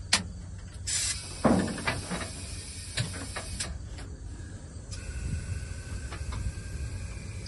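Air-ride suspension inflating: a sharp click as the valve opens, then compressed air hissing loudly into the airbags for about three seconds to lift the car, with a few knocks during the hiss. A faint steady whine starts about five seconds in.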